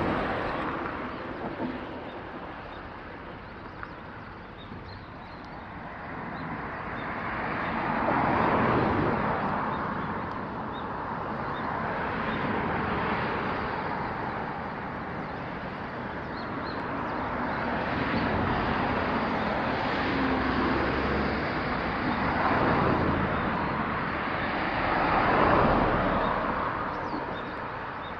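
Outdoor noise of vehicles passing one after another, each swelling and fading over a few seconds, with a few faint high chirps.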